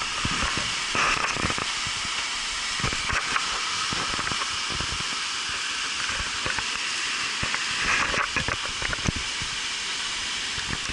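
Rushing whitewater of a river rapid: a steady hiss of water, with scattered short knocks and clicks.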